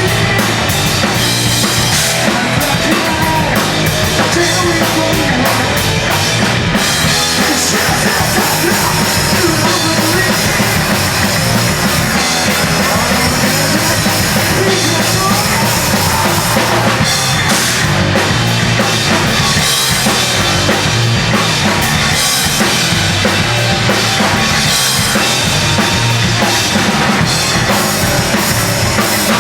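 A band playing loud, dense hardcore punk with a pounding drum kit, without a break.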